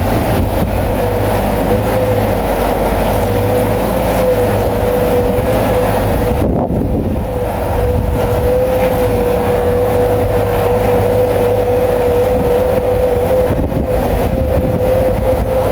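Bulldozer's diesel engine running steadily while working, with a constant high whine over the engine noise.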